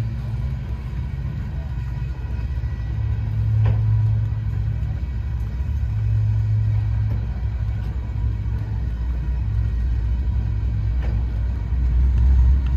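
Freight train of covered hopper cars rolling past: a steady low rumble of steel wheels on rail that swells and eases as each set of trucks goes by, with a couple of sharp clacks.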